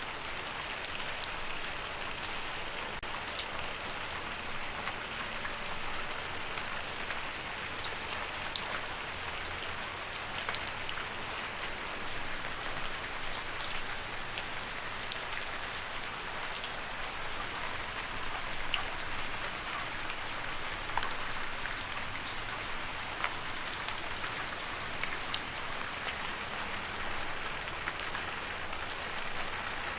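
Steady rain falling, a constant patter with scattered sharper drops ticking on a surface.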